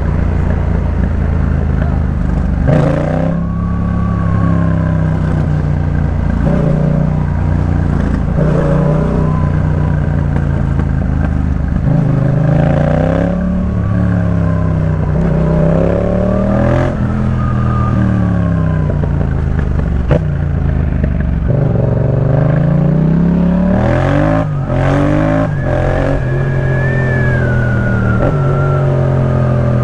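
Yamaha MT-07's parallel-twin engine through a Jeskap K4 full exhaust, pulling up through the revs and dropping back again and again as the bike accelerates, shifts and rolls off. Several sharp cracks cut across the note, a cluster of them about three-quarters of the way through.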